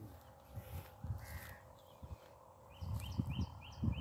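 A bird calling in a quick run of about five short, high notes in the second half, over faint low thumps.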